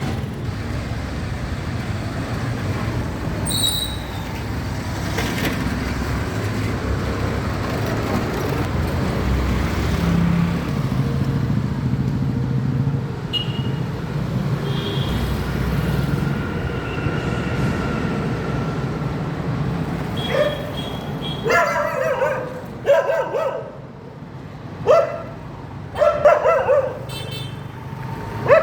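Steady low rumble of road traffic. About 20 seconds in, a dog starts barking, a string of sharp barks repeated irregularly to the end.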